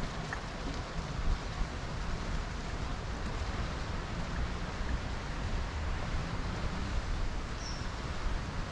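Steady rushing noise with a strong low rumble from riding a bicycle through city streets: wind on the microphone, tyres on the road and traffic around, with a couple of small knocks about a second in.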